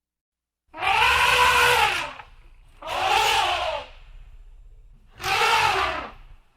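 African elephant trumpeting three times, each call a little over a second long and rising then falling in pitch.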